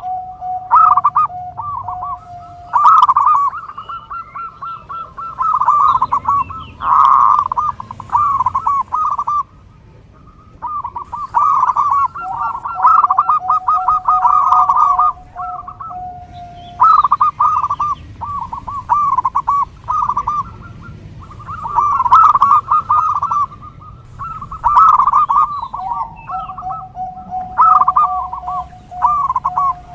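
Zebra dove (perkutut) cooing in repeated rapid, rolling phrases, several seconds apart. A long steady tone sounds beneath the calls near the start, in the middle and near the end.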